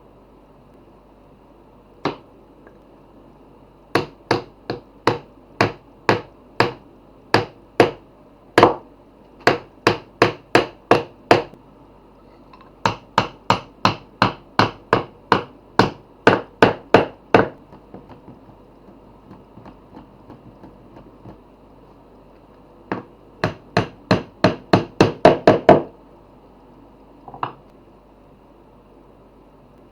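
Hammer striking reclaimed pallet wood in runs of steady blows, about two a second. Between runs there are pauses with a few light taps, and a quicker run near the end.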